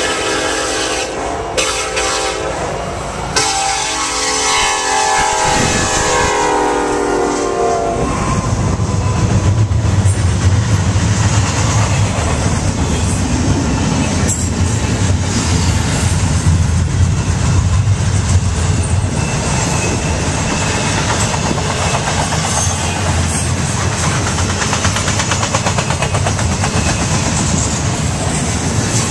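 Freight train horn sounded in several blasts, the last one held long and dropping in pitch as the locomotives pass. It gives way about eight seconds in to a steady low diesel rumble and the continuous roll of a CN double-stack intermodal train, its wheels clacking over the rail joints.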